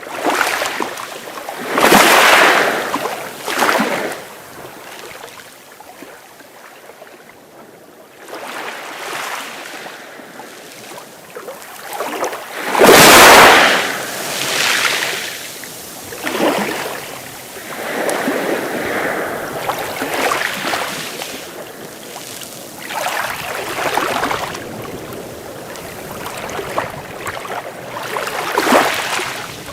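Sea waves breaking and washing up a beach, an irregular surge of surf every few seconds, the largest about thirteen seconds in.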